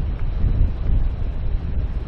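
Wind buffeting the microphone outdoors: a strong, fluctuating low rumble with an even hiss of moving air above it.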